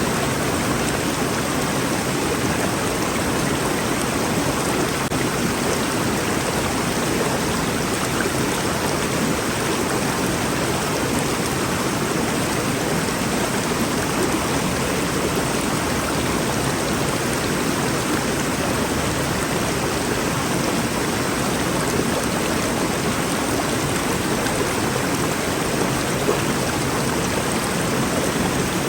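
River flowing: a steady, even rush of water with no breaks or changes.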